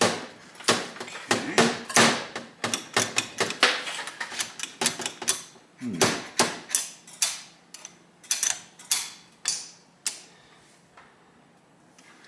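Small metal parts and hand tools clicking, tapping and clinking against a motorcycle engine's casing as it is worked on, in quick irregular knocks that die away near the end.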